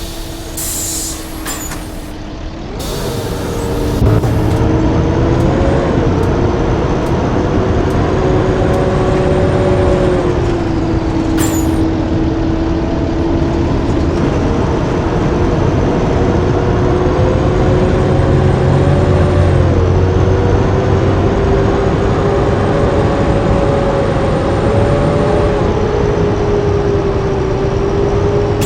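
Blue Bird school bus's diesel engine pulling away and accelerating through the gears. Its pitch climbs and then drops at each shift, about four times. Short air hisses come near the start and again about eleven seconds in.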